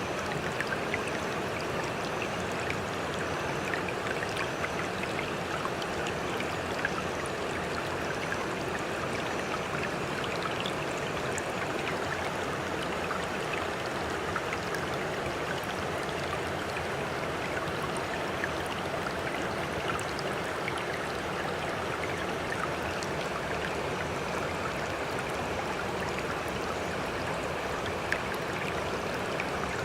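Steady sound of running water, even and unbroken, with faint scattered ticks.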